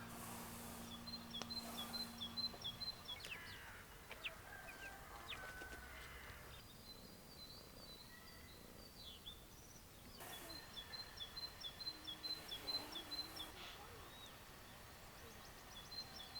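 Small birds chirping: fast runs of short high chirps, about four or five a second, lasting a few seconds each, with scattered other calls between them.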